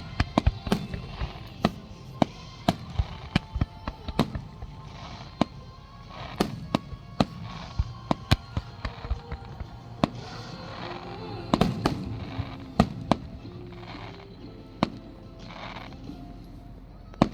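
Fireworks going off in quick, irregular succession: dozens of sharp bangs, some close together, over a low rumbling background.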